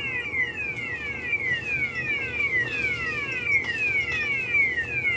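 Gate opener's warning alarm sounding a rapid, unbroken series of falling electronic chirps, about three a second, as the gate closes, over a faint steady hum.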